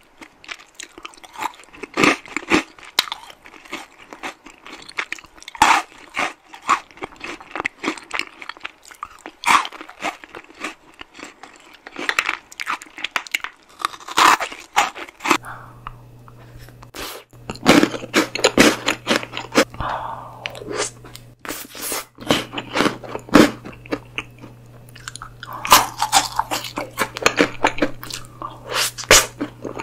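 Close-miked crunching and chewing of chocolate-coated malt balls with crisp honeycomb centres. About halfway through, a second eater's bites and chewing of chocolate desserts take over, over a faint steady low hum.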